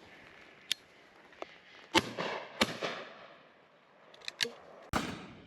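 Shotgun shots: a quick pair about two seconds in, another near the end, each trailing off in echo, with fainter cracks in between.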